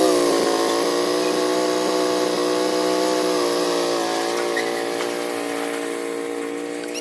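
Small engine running at a steady speed, with a constant pitch throughout.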